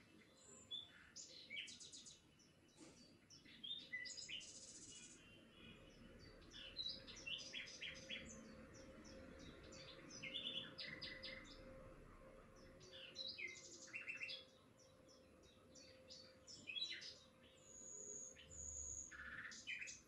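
Small birds chirping and twittering faintly, many quick, short chirps and trills in overlapping bursts.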